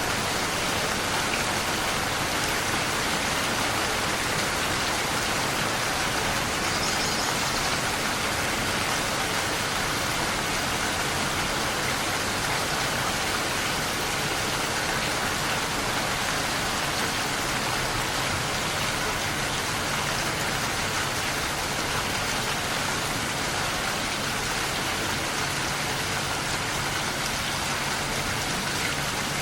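Steady rainfall, an even hiss of rain on surfaces.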